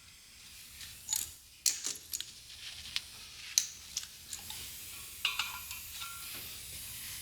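Scattered light metallic clinks and taps, about eight of them irregularly spaced, as hubcap clip, rivet and steel rim are handled and set on the riveting tool.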